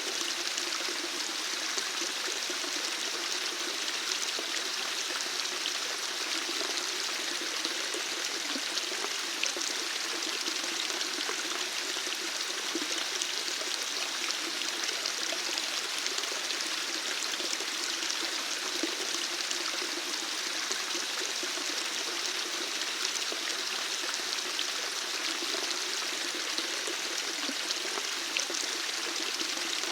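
Flowing water running steadily, an even rushing and splashing that does not change.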